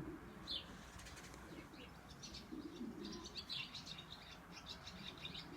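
Faint bird sounds: many short, high chirps from small birds, thickest in the second half, and a low pigeon coo about halfway through.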